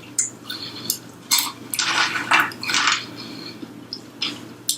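Close-up eating sounds: chewing fried chicken, in a run of short crisp bursts from about a second in and twice more near the end.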